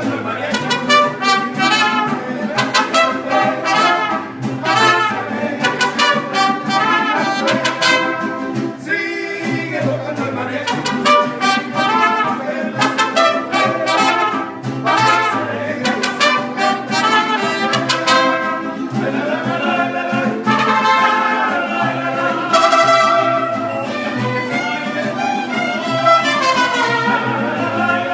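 Mariachi band playing live, trumpets to the fore over a stepping bass line.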